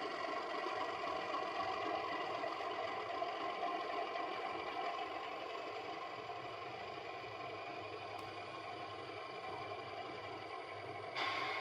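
Sound decoder in an Accurascale Class 31 model locomotive playing its English Electric diesel engine running steadily, heard through the model's small onboard speaker, as part of a cold start-up sequence. Near the end the sound turns abruptly brighter and louder.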